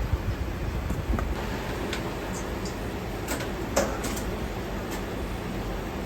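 Restaurant kitchen at work: a steady rushing noise from the burners and ventilation, with a few sharp clinks of utensils or dishes, the loudest about four seconds in.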